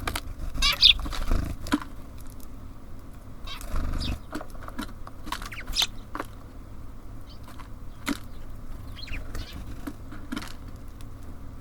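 Small birds at a feeder: wings flapping in two short bursts, about a second in and about four seconds in, among scattered sharp clicks and a few brief high chirps.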